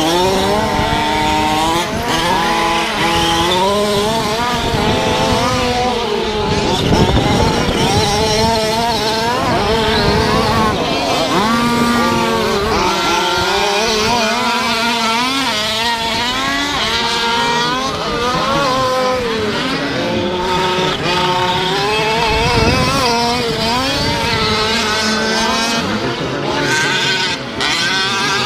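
Several 1/5-scale gas RC trucks racing, their small two-stroke engines revving up and easing off over one another, with a steady noise of tyres on dirt underneath.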